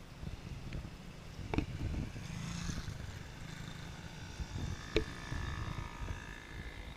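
A small motorbike engine whining, its pitch drifting up and down, over a low rumble, with two sharp clicks, about a second and a half and five seconds in.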